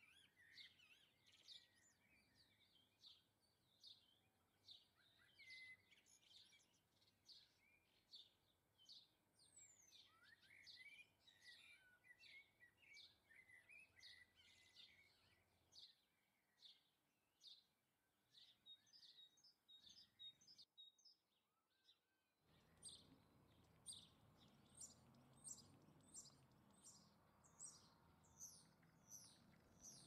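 Small birds chirping, faint: a steady run of short high calls, several a second, with some quick rising notes. About three-quarters of the way through, a soft low background rush comes in under the calls.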